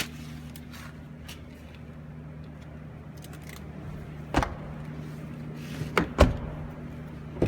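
Doors of a Toyota 4Runner being handled: one knock about four seconds in, then two more in quick succession about six seconds in, over a steady low hum.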